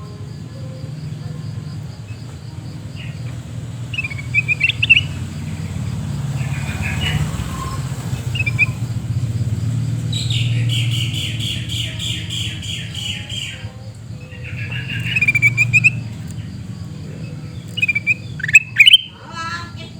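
Kutilang emas bulbuls calling with short, harsh, chattering notes and a longer run of chatter about halfway through. The loudest calls come in a burst near the end, over a steady low hum.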